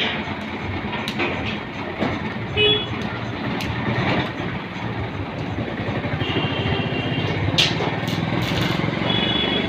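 An engine running steadily with a fast low pulse, with short high tones and a few clicks over it.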